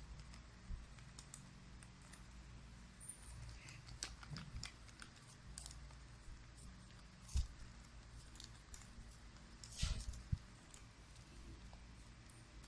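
A folded paper origami bird being handled, with scattered light paper rustles and taps. The loudest come a little past seven seconds and around ten seconds in, over a faint steady low hum.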